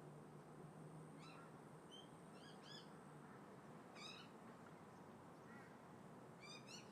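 Crows calling faintly: a string of short calls, about one a second and some in quick pairs, over a steady low rumble of distant traffic and wind.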